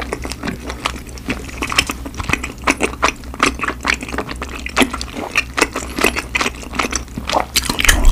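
Close-up mouth sounds of chewing chewy rice cakes in cheese tteokbokki sauce: wet, sticky clicks and smacks several times a second over a low steady hum.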